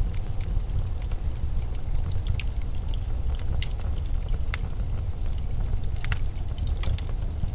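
Low, steady rumble of blizzard wind, with scattered sharp crackles or ticks at irregular intervals.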